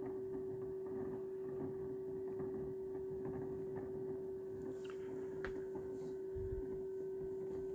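Small tabletop egg incubator running with a steady, even-pitched hum while its automatic egg turner rotates the eggs, with a few faint clicks in the second half.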